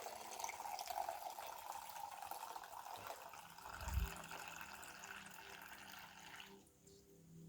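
Kombucha being poured into a glass, a steady stream of liquid that stops about six and a half seconds in. A short low thump comes about four seconds in.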